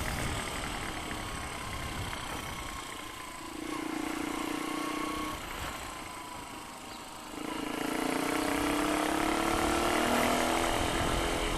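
Motor vehicle engines running. One engine is heard briefly about a third of the way in, and another comes in after about seven seconds and rises slowly in pitch as it speeds up.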